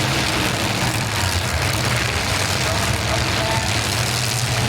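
Demolition derby cars' engines running loud and steady, a deep rumble under a heavy wash of noise, with faint short rises in pitch as engines rev.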